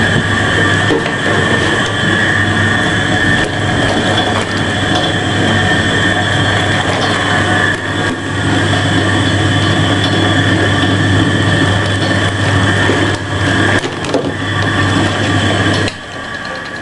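Ural-4 washing machine running: a steady motor hum under loud mechanical clattering and rattling, which cuts off abruptly near the end.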